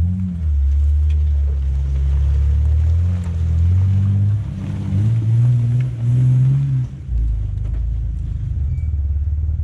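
Off-road 4x4's engine working over rough ground, its pitch rising and falling with the throttle, then dropping to a steady low run about seven seconds in.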